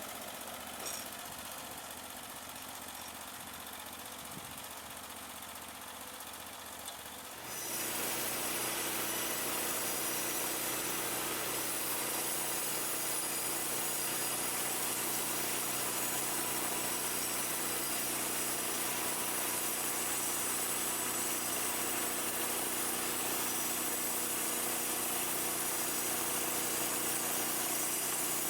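Portable sawmill's engine running steadily at a lower level, then jumping louder about seven seconds in and holding a steady, higher run.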